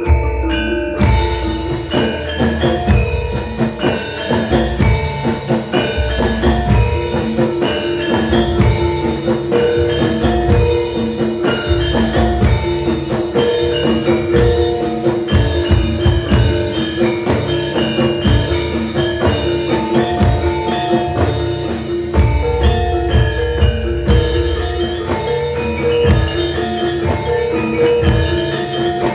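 Gamelan ensemble playing a gending: bronze metallophones and gongs ring out a dense run of struck notes over frequent drum strokes.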